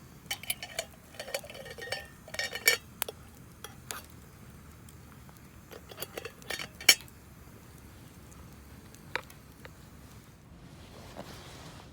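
Metal cutlery clinking and scraping against tableware while eating, a quick run of light clinks for the first few seconds, a few more around six to seven seconds, and a single clink near nine seconds.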